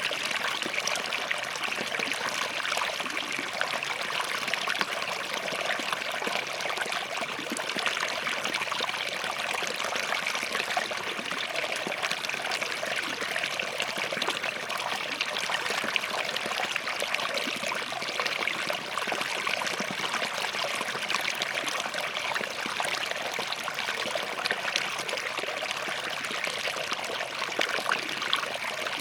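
Small forest stream flowing between rocks: a steady babble and trickle of water, even throughout with no pauses or louder events.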